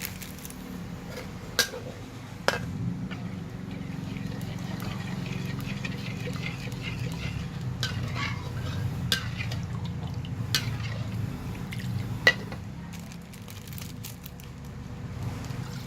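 Curry being stirred in a pot with a metal utensil: liquid stirring sounds with about six sharp clinks of the utensil against the pot, over a steady low hum.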